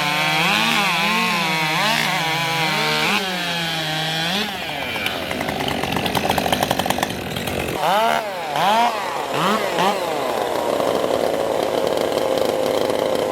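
Two-stroke racing chainsaw at full throttle cutting through a log, its engine pitch rising and falling as the cut loads it. About eight seconds in it gives several short throttle blips, then settles to a steadier, slowly falling note.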